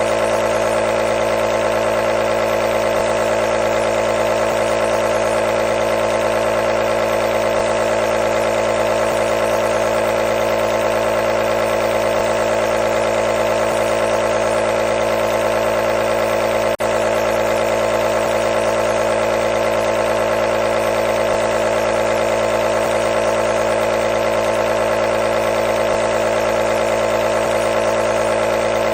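Nebulizer running: a steady, loud buzzing hum. It drops out for a split second about 17 seconds in.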